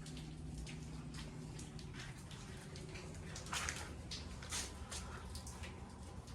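Quiet room tone with a steady low hum and a few faint clicks and rustles, loudest a little past the middle.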